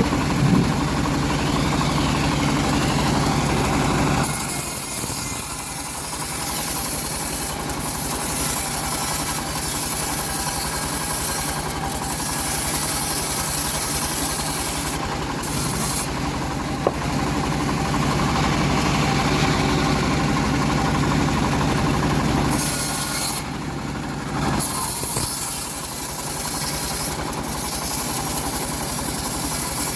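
Engine-driven homemade bandsaw sawmill running continuously while milling an old teak log, its level shifting a few times: stronger for the first few seconds and again in the latter middle, softer between.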